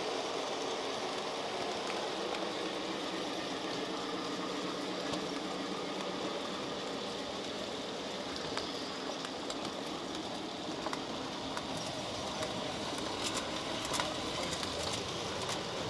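Model train running on its layout track: a steady whir of the small electric motor and wheels on the rails, with a few light clicks in the second half.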